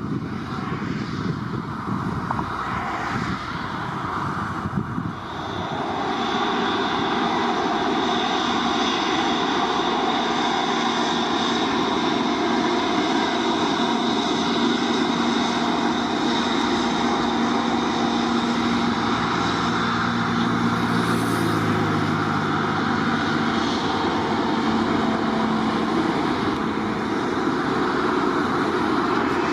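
Airliner engines running, with a steady high whine; the sound grows louder about five seconds in and then holds steady.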